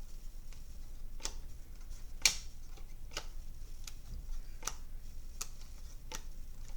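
Trading cards being handled and flipped one by one, making light, sharp clicks roughly every second, one much louder about two seconds in.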